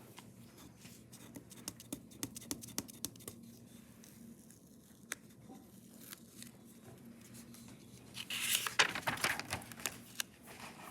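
Paper being handled: a scatter of light clicks and taps, then a louder burst of crackling paper rustle about eight seconds in, over a faint steady hum.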